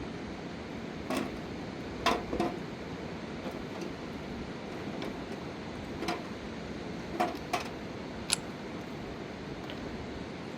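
Steady rushing of a river, with about seven sharp knocks and clacks scattered through it, two close together near two seconds in and two more near seven seconds.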